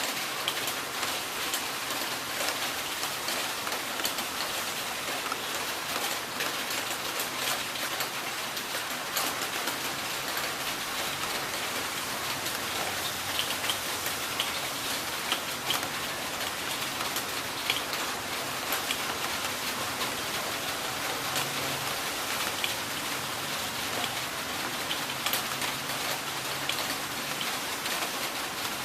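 Heavy rain falling steadily, with many sharp drops pattering and ticking on a hard surface.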